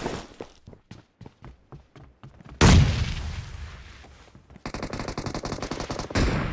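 Shooter video game gunfire: a run of lighter single shots, then a loud blast about two and a half seconds in that fades slowly, then rapid automatic fire near the end.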